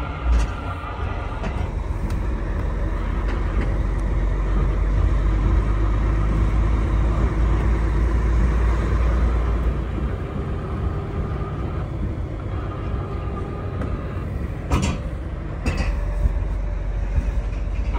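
A heavy truck's engine and road noise, a steady low rumble heard from inside the cab while driving. There are a few short knocks or rattles: one just after the start and two about three-quarters of the way through.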